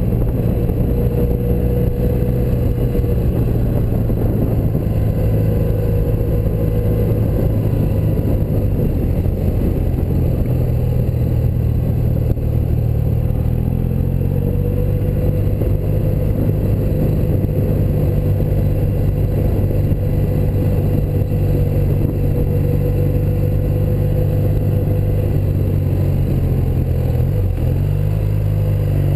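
A 1984 BMW R100RS's air-cooled flat-twin boxer engine running steadily under way, its pitch shifting with the throttle. The pitch dips briefly near the end.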